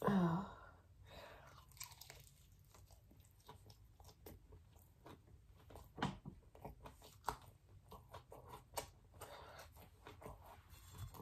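Close-up chewing and biting of crispy fried chicken: a steady run of small crunching clicks, with a few sharper crunches about six to nine seconds in. It opens with a short, loud sound that falls in pitch.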